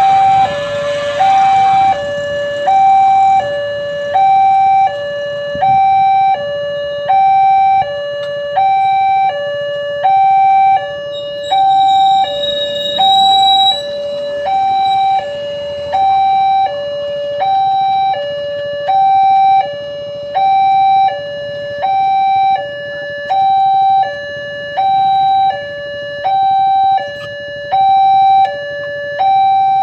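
Railway level-crossing warning signal sounding a steady two-tone alarm, a high note and a lower note alternating evenly, roughly one high-low pair every second and a half. A rushing noise dies away in the first two seconds.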